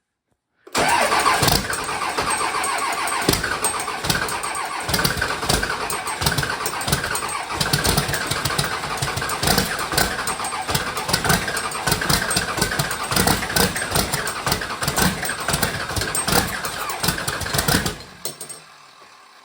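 Cummins 24-valve 5.9-litre inline-six diesel starting cold at about 15°F, exhaust out through a hood stack. It comes in suddenly about a second in and runs loud and uneven with many sharp knocks, then drops away sharply near the end.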